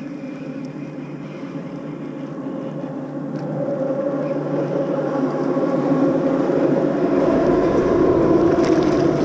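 A boat motor drones steadily and grows gradually louder, as a boat comes closer or speeds up.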